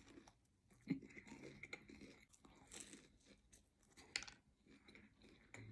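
Faint chewing and crunching of fried chicken, with sharper crunches about one and four seconds in.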